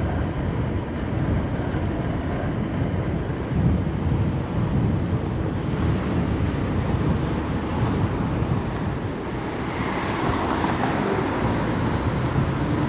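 Wind rushing over the microphone and road rumble while riding a scooter along a city street; the noise turns hissier about ten seconds in.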